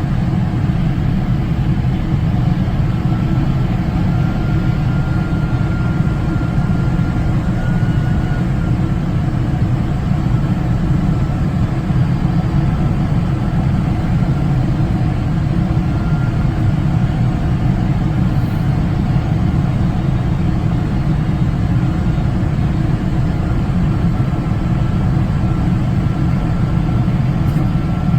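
Steady engine and airflow roar of a Qantas Boeing 747 in flight, heard from inside the cabin on approach. A faint high whine comes and goes over the deep, even rumble.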